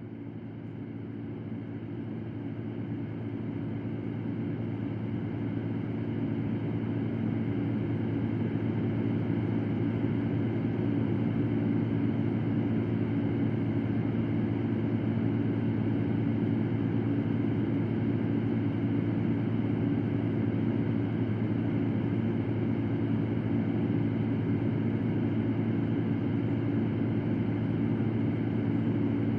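An electric fan running steadily: a low motor hum under an even rush of air. It swells up from quiet over the first few seconds, then holds level.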